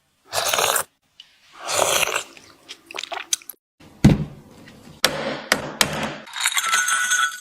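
Kitchen handling sounds: two short rustling swishes in the first two seconds, a run of sharp clicks and taps, and a heavier thud about four seconds in, then a steady hiss near the end.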